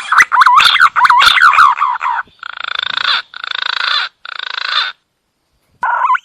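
Green pigeon (punai) calls: a run of fluty whistled notes gliding up and down, then three harsh rattling croaks, a short pause, and the whistling starts again near the end.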